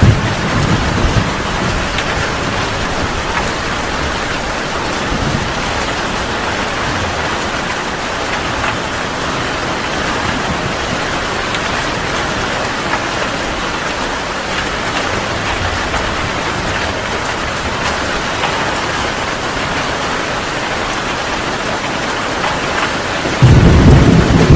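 Heavy rain falling steadily, with low rumbles of thunder in the first second or so and a louder roll of thunder starting about a second before the end.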